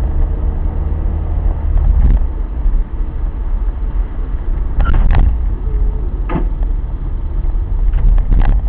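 A car's steady low road and engine rumble, as recorded by a dashcam, with a few short knocks or clicks at about two, five, six and eight and a half seconds in.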